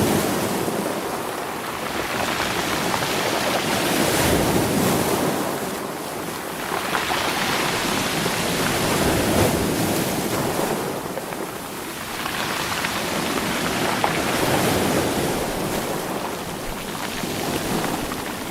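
Sea waves surging in and drawing back over rolling stones: a continuous rush that swells and ebbs about every five seconds.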